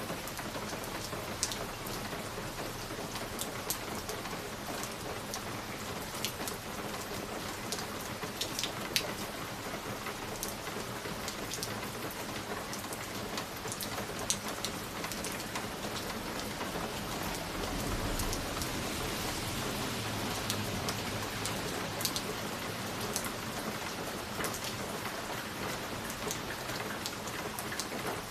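Wood fire crackling in a fireplace: a steady hiss with many irregular sharp pops and snaps. A low rumbling swell comes in about two-thirds of the way through.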